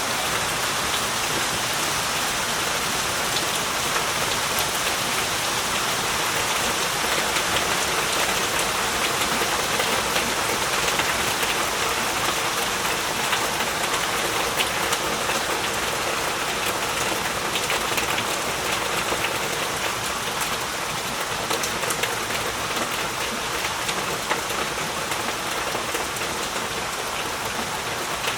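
Heavy rain falling steadily, a dense even hiss of drops with fine pattering ticks of individual drops hitting surfaces.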